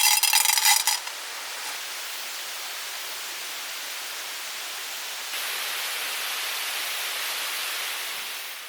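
Mountain stream rushing over rocks: a steady hiss of running water. It steps louder about five seconds in and fades out near the end. A loud, buzzing pitched sound cuts off about a second in.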